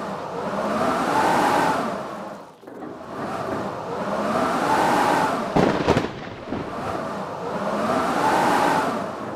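Blizzard wind howling in gusts, each gust swelling with a rising-then-falling whistle about every three and a half seconds. A sharp crack comes about six seconds in.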